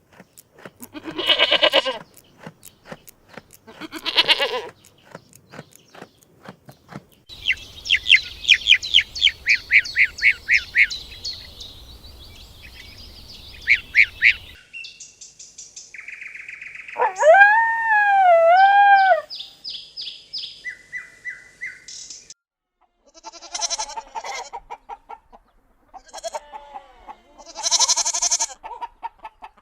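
A string of different animal calls cut one after another: two drawn-out calls near the start with a run of clicks between them, then long series of rapid high chirps, a wavering pitched call rising and falling twice in the middle, and more short bursts of chirps toward the end.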